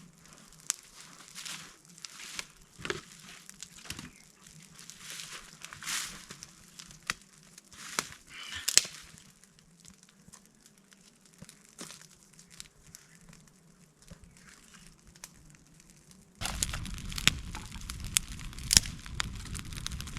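Dry kindling being handled, with crinkling, rustling and small snaps. About sixteen seconds in, a sudden steady rushing starts with crackling on top: a gas burner is being used to light the campfire.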